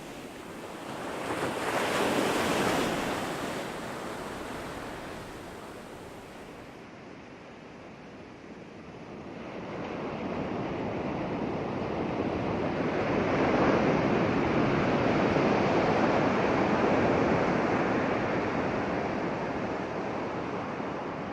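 Ocean surf breaking on a beach: one wave swells and breaks about two seconds in, then a longer, louder wash builds and holds through the second half before easing off.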